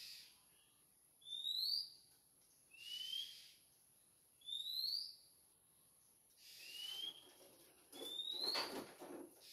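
A bird calling with short, rising whistled notes, alternating higher and lower, about one every one and a half to two seconds, over a steady high-pitched hiss. A louder rushing noise rises around eight seconds in.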